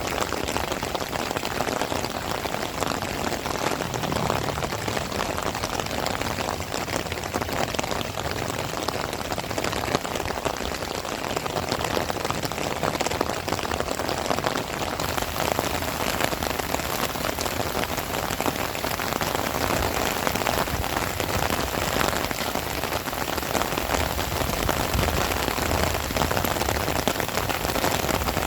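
Heavy rain falling steadily, a dense even hiss of drops without a break.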